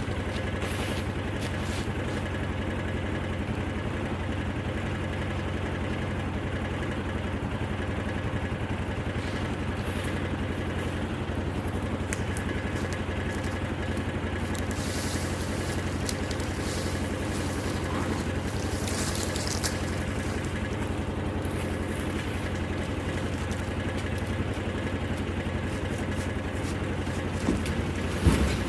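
An engine running steadily at constant speed, with no revving, like a vehicle idling or cruising.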